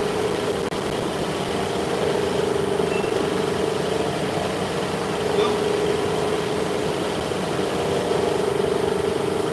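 A machine running steadily, a constant hum with a held mid-pitched tone.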